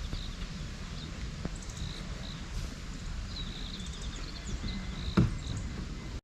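Outdoor ambience: a steady low rumble with short, high chirps of small animals scattered through it, and one sharp knock about five seconds in.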